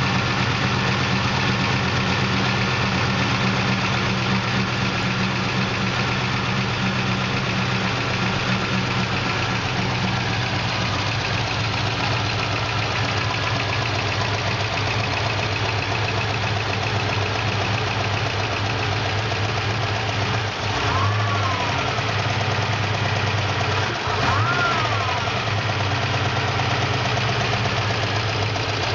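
Supercharged GM LS2 V8 with a Magnuson 2300 blower idling steadily, with the lifter noise its owner is pointing out. Twice near the end the revs rise and fall in a brief blip.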